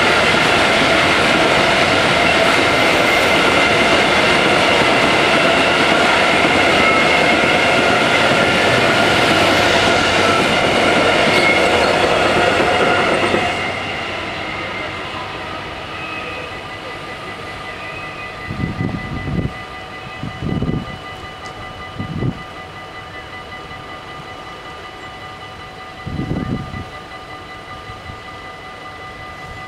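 Freight train of hopper wagons rolling past a level crossing: the steady rumble and clatter of wheels on the rails, which stops about thirteen seconds in as the last wagon clears. The crossing's warning bells keep ringing with steady tones, with a few brief low rumbles near the end.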